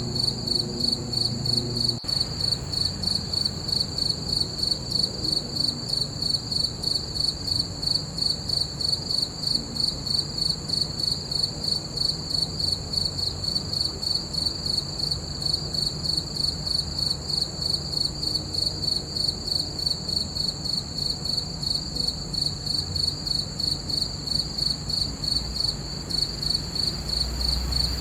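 Crickets chirping in a steady, high, evenly pulsing chorus, with a faint low rumble beneath.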